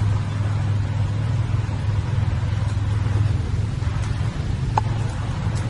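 A steady, loud, low droning hum, with a short faint high chirp about five seconds in.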